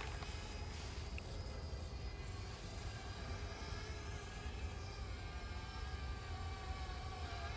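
Parrot Bebop 2 quadcopter's motors and propellers whining faintly in flight, several steady tones drifting slowly in pitch, over a low wind rumble.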